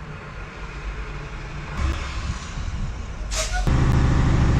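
Semi truck's diesel engine being started: a low rumble, a short burst of air hiss about three seconds in, then the engine catches and runs at a steady idle.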